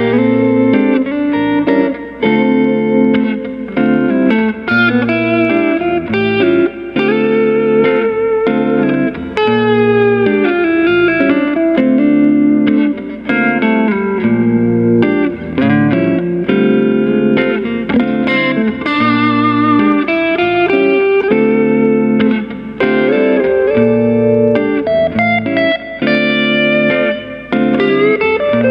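Fender Telecaster electric guitar played through a three-knob Cali76 compressor pedal and a Two-Rock EXO amp: a continuous run of notes and chords at an even level, with string bends about nine seconds in and vibrato near the twenty-second mark.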